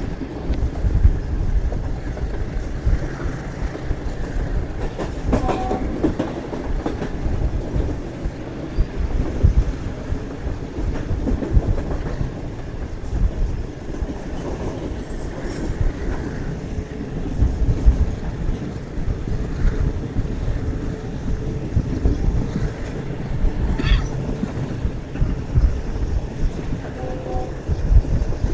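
Passenger train running on the rails: a steady low rumble with wheels clattering over the track.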